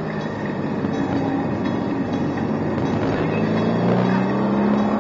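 Mercedes-AMG C63 S twin-turbo V8 engine heard from inside the cabin on a race track, running through a corner and then accelerating, its pitch rising from about three seconds in.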